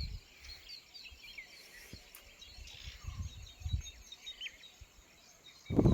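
Small birds chirping and calling in many short, high chirps over outdoor background noise, with scattered low bumps on the microphone. A loud low rumble comes in near the end.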